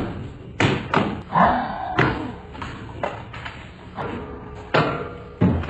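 An irregular series of thumps and knocks, about eight in all, each short and sharp, with a brief pitched vocal-like sound after the first few.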